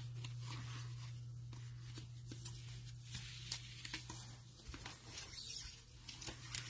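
Faint rustling and light clicks of trading cards being handled and flipped through, over a steady low hum.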